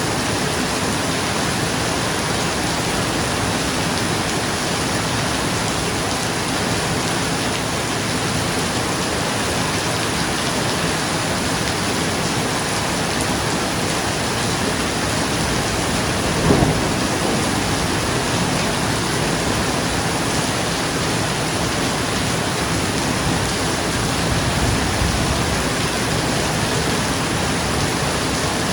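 Steady rain falling on a roof, with a sudden clap of thunder a little past halfway and a softer, lower rumble of thunder later.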